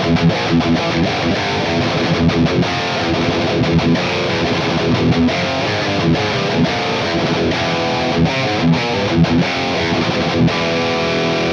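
High-gain distorted electric guitar riff played through a Mooer Brown Sound preamp pedal into a power amp sim and a cabinet impulse response, the notes and chords played continuously.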